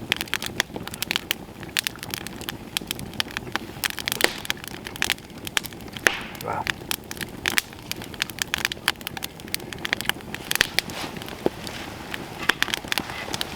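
Campfire crackling, with irregular sharp snaps throughout.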